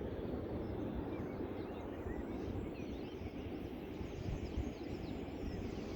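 Steady low rumble of the sea and wind outdoors, with faint birds chirping over it.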